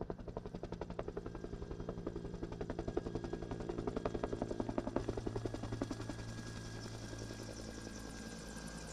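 Helicopter flying, its rotor beating about five times a second over a steady engine drone; the beat grows louder, then settles into a smoother drone for the last few seconds.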